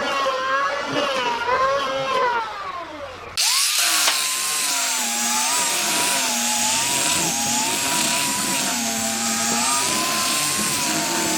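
Power tool running while working wood, its motor pitch rising and falling under load. About three and a half seconds in the sound cuts abruptly to another steady, slightly wavering whine with a hiss.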